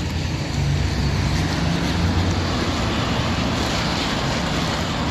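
Street traffic: a passing vehicle's engine rumble and tyre noise, getting louder about half a second in.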